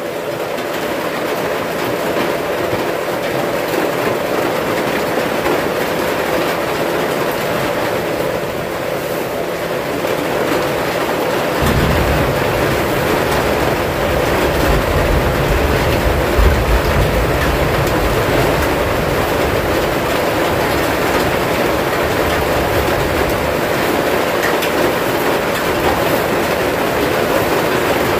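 Heavy rain drumming steadily on the roof of a wooden hut; from about twelve seconds in, a deeper low rumble joins it and the downpour grows louder.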